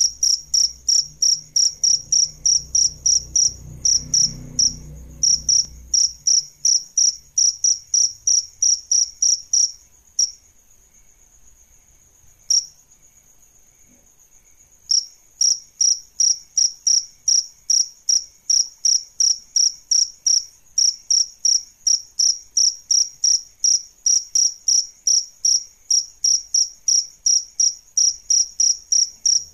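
Cricket chirping loudly at an even rate of about three high-pitched chirps a second. The chirping stops for about five seconds near the middle, with one lone chirp, then resumes at the same pace.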